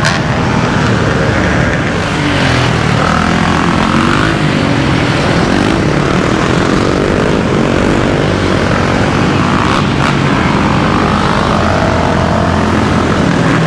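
Dirt bike engines running and revving close by, their pitch rising and falling, over a steady rush of wind and road noise from riding along with them.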